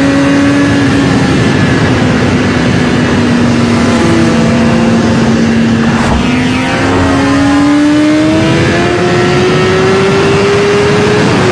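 Superbike engine running hard at high revs, its pitch steady at first, then climbing slowly through the second half.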